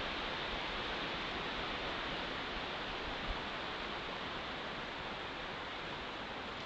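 A steady rushing hiss of outdoor noise, easing off slightly over a few seconds.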